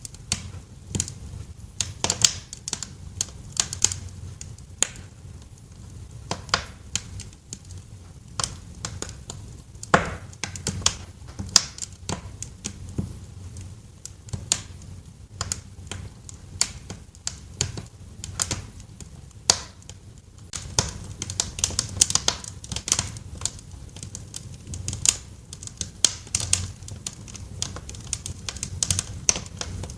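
Wood fire crackling in a fireplace: irregular sharp pops and snaps, some loud, over a low steady rumble of the burning logs.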